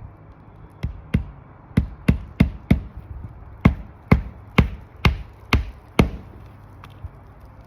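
Hammer driving roofing nails through asphalt shingle tabs: about a dozen sharp strikes in three runs, two or three a second, with short pauses between nails.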